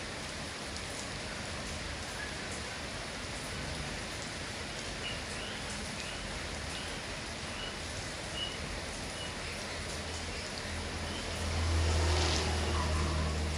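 Steady rain falling, an even hiss, with a row of faint short high notes in the middle. A low rumble swells about two-thirds of the way through and stays to the end.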